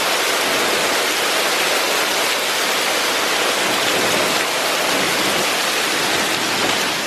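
Heavy rain pouring down in a thunderstorm downpour, a steady even hiss throughout.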